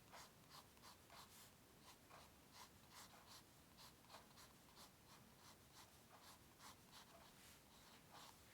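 Faint scratching of a drawing tool on paper: short, irregular strokes, about two or three a second.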